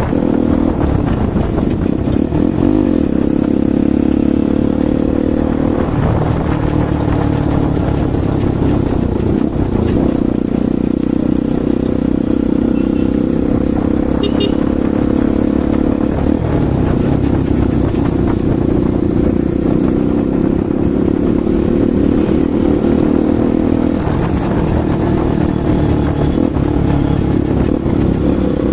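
Bajaj Pulsar NS200's single-cylinder engine running through an aftermarket Akrapovic exhaust. The note holds mostly steady, with a few small shifts in pitch.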